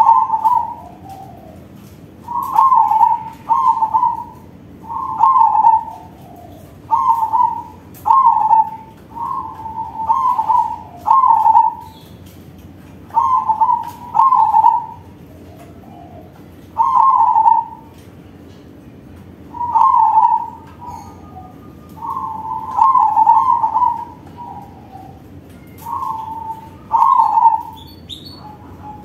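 Crossbred perkutut (zebra dove) cooing its manggung song, a loud, long run of short coos on a steady pitch, mostly in twos and threes with short pauses between.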